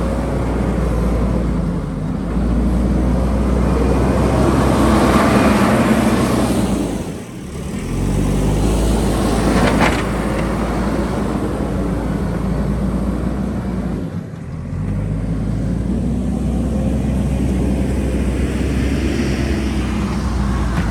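JCB backhoe loader's diesel engine working under load. It eases off briefly twice, about seven and fourteen seconds in, and there is a single sharp knock about ten seconds in.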